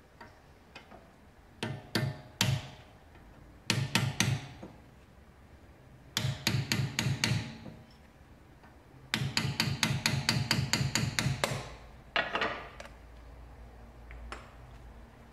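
Hammer blows on the metal dust cap of a BMW E46 front wheel hub, knocking it out to reach the hub nut. There are a few single strikes, then quick runs of ringing metallic taps at about six a second, with short pauses between them.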